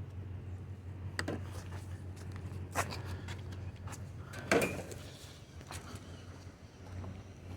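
A few scattered clicks and knocks from scrap being handled in a dumpster, over a steady low hum.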